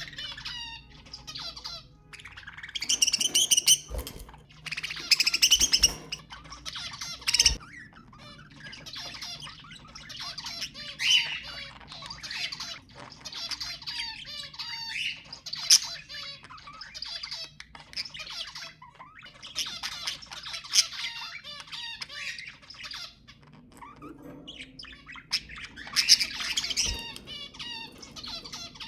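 A flock of budgerigars chattering and warbling: a dense, steady run of quick chirps and trills broken now and then by louder squawks. This is the busy flock chatter played to encourage budgies to breed.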